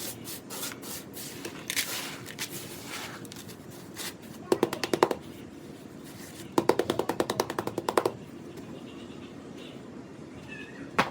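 Rapid tapping on a gritty sand-and-cement shape, in two quick bursts of about ten taps a second. Before them come scattered clicks and a gritty scraping.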